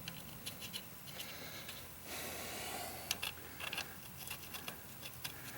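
Faint scattered clicks and light handling noise, with a soft hiss lasting about a second near the middle.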